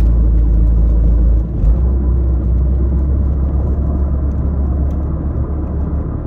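Boat motor running with a steady low rumble; its tone shifts about a second and a half in.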